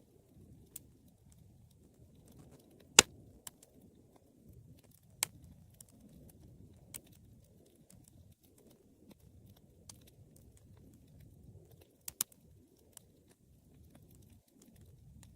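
Wood fire burning in a fireplace: a low steady rumble of flames with scattered sharp crackles and pops. The loudest pop comes about three seconds in, and a quick pair follows near the end.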